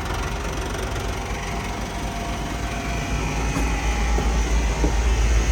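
CAT 416B loader backhoe's turbo diesel engine running steadily at idle, heard from inside the cab, getting louder in the second half.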